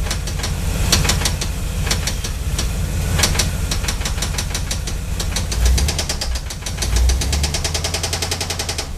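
350 small-block Chevy V8 running with a loud, regular rod knock: a spun connecting rod bearing. The knocks come faster in the last couple of seconds.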